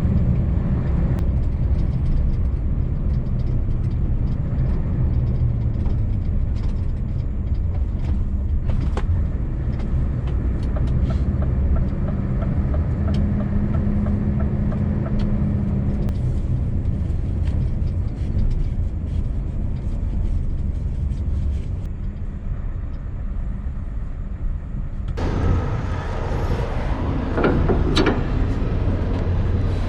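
Scania V8 truck engine running steadily at low revs while driving slowly. About five seconds from the end the sound turns brighter and noisier, with some sharp clicks.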